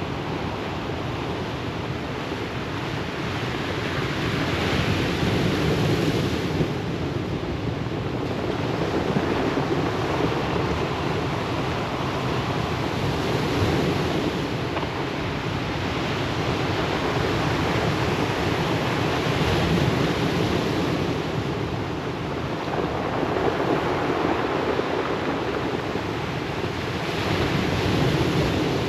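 Ocean surf washing onto a pebble beach: a continuous rush of waves that swells and eases about four times, roughly every seven or eight seconds.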